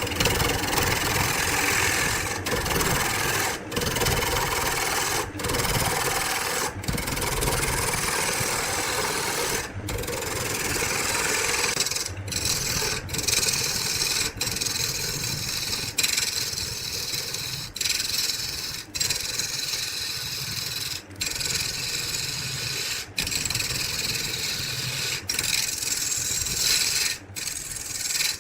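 Wood spinning on a lathe with a hand-held tool rasping against it: a steady scraping noise in passes of one to two seconds, broken by brief gaps.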